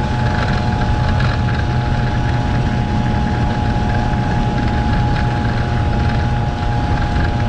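A small 50cc scooter engine running at a steady speed while riding, giving an even drone with a whine that holds one pitch throughout.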